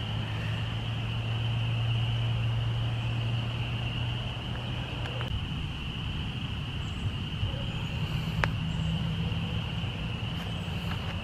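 Steady chorus of spring peepers, an unbroken high trilling mass, over a low steady engine drone that is strongest in the first half. A single sharp click comes about eight seconds in.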